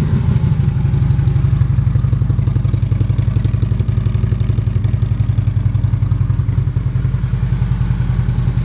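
2016 Harley-Davidson Road Glide's 103 cubic inch V-twin idling steadily through aftermarket Rinehart slip-on mufflers, with an even pulsing beat.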